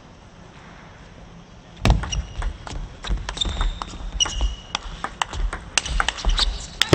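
A table tennis rally: the ball clicks quickly off rackets and table, with low thumps of footwork and short squeaks of shoes on the court floor. The rally starts about two seconds in, after a quiet pause.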